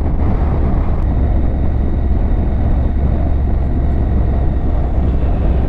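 Honda NC750X motorcycle running steadily on the move, a low engine drone under wind and road noise.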